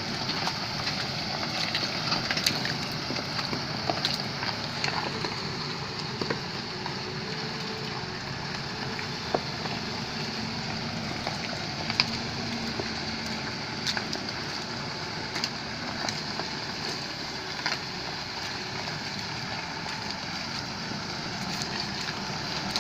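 A vehicle travelling in the rain, heard as a steady rushing noise with scattered sharp ticks and taps.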